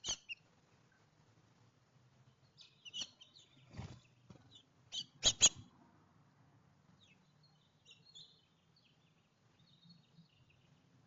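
Small songbirds chirping in short, high calls at a backyard feeder, with a few sharp knocks, the loudest a quick pair about five seconds in.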